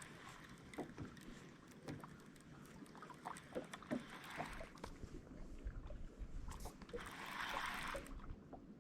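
Faint water lapping and sloshing against a fishing boat's hull, with scattered small clicks and knocks, and a short swell of splashy noise near the end.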